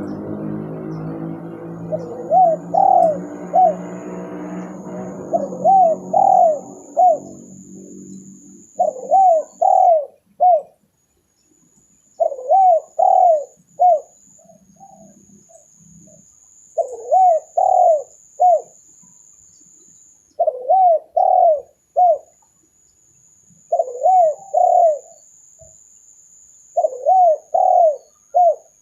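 Spotted dove (tekukur) cooing its lure call: short phrases of three or four coo notes, repeated about every three and a half seconds. A low droning hum fades away over the first eight seconds, and a faint high steady whine runs underneath.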